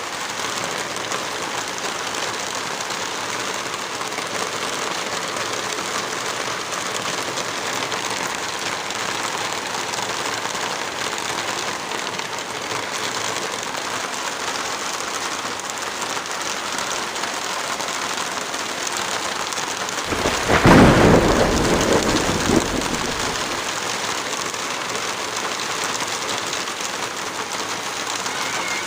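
Steady heavy rain hiss, with a loud, deep rumble about twenty seconds in that lasts around three seconds before the even rain sound returns.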